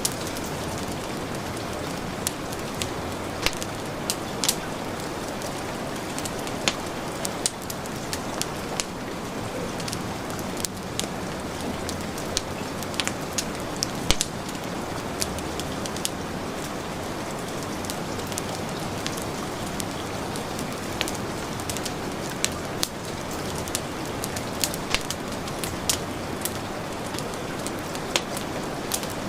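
Steady heavy rain hissing, with a wood fire crackling and popping at irregular intervals over it.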